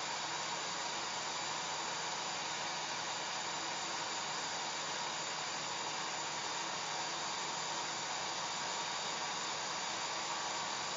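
Hair dryer running steadily: a continuous, even rush of blown air with a faint low hum underneath.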